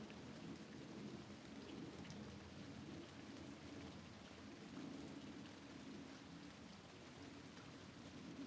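Soft, steady rain falling at a window, with a few faint separate drop ticks over the even hiss.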